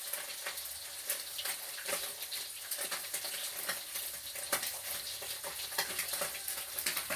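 Fish frying in hot oil in a pan, a steady sizzle with frequent small crackles and pops.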